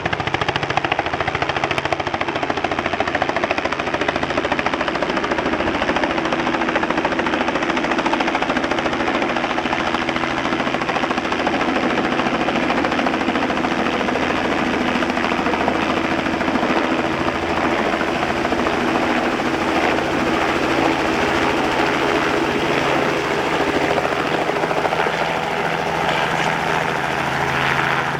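Helicopter running: a steady, rapid chop of the rotor blades over a constant engine hum.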